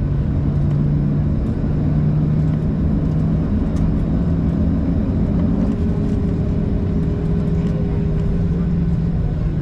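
Steady, loud low hum inside the cabin of a Boeing 737-700 on the ground after landing. A fainter higher tone joins about halfway through.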